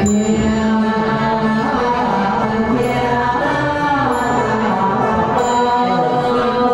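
Ritual chanting over continuous instrumental music, with long held notes that slide in pitch and short high ringing notes now and then.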